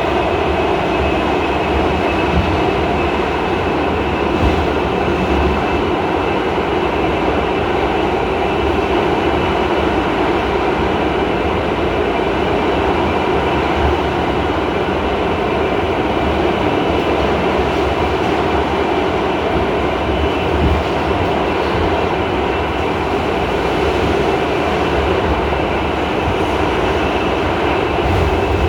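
R68A subway car running on the express track, heard from inside the car: a steady rumble of wheels on rails with a high, steady whine over it.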